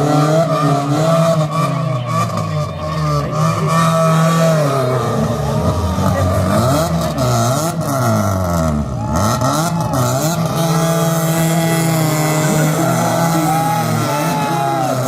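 Drift car engine being revved hard, its pitch rising and falling again and again, with quick swings up and down in the middle.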